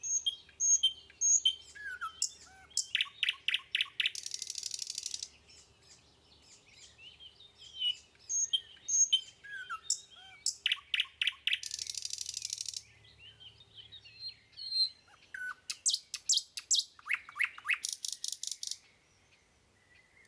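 A small songbird singing: bright chirps and short whistled slides, each run ending in fast rattling trills, the whole phrase coming round three times.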